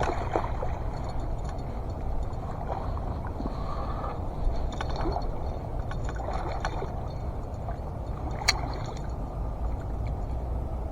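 Wind rumbling on the microphone with water sloshing, and a few light clicks, one sharper about eight and a half seconds in.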